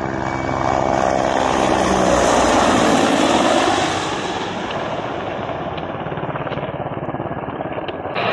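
Mil military helicopter (Mi-8 or Mi-24) flying past: rotor and turbine noise swells to a peak about three seconds in, then fades to a steadier, lower drone.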